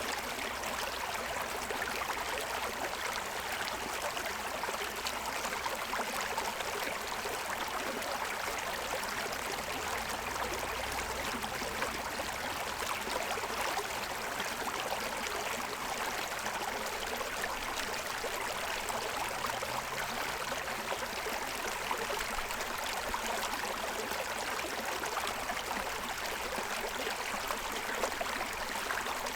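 Forest stream running and splashing over the stones of its bed: a steady, even rushing.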